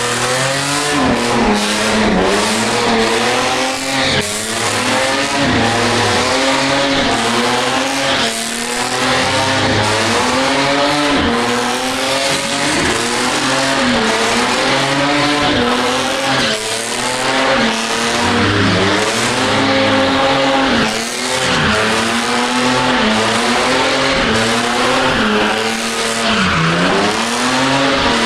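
Drifting car's engine revving up and dropping back over and over, about every two seconds, with tyres squealing as they slide.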